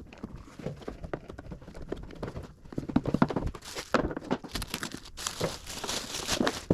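Plastic masking sheet crinkling and masking tape being pulled and stuck down, in irregular rustles and crackles that grow busier about halfway through.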